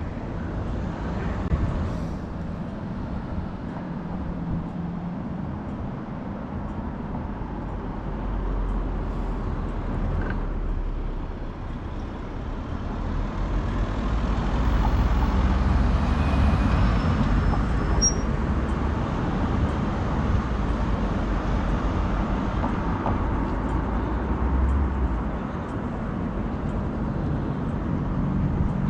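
Riding a city bike with steady road and traffic noise, growing louder from about halfway through.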